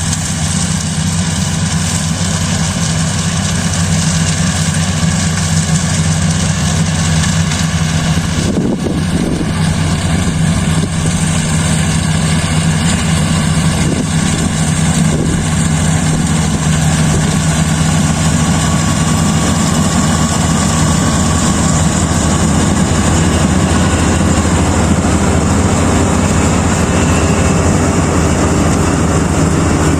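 Kubota DC-35 rice combine harvester running steadily: a constant engine drone with a dense mechanical rush over it.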